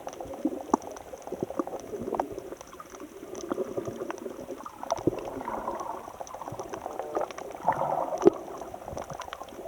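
Sea water gurgling and sloshing, with many scattered small clicks.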